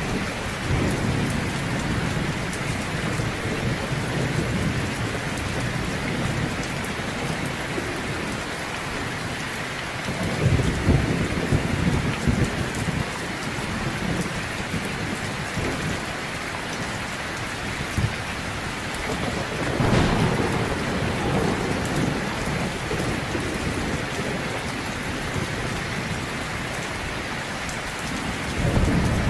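Heavy rain falling steadily, with thunder rumbling low several times: near the start, about ten seconds in, about twenty seconds in and again at the end.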